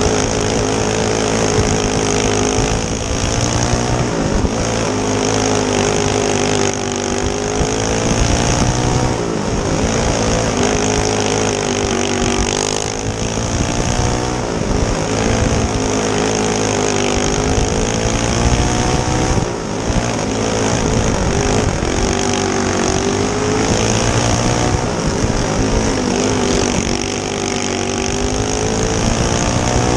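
Single-cylinder four-stroke racing kart engine at full race pace, its pitch climbing and then dropping over and over, about once every three to four seconds, as the kart laps a short dirt oval.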